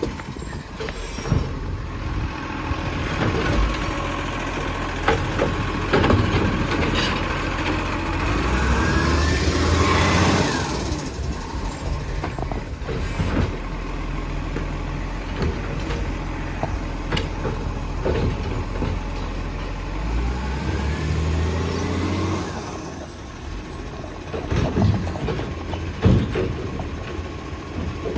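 Garbage truck working: its engine runs and revs up and down, with scattered knocks and clatter. Short hisses of air are heard about three times, near the start, about halfway through and near the end.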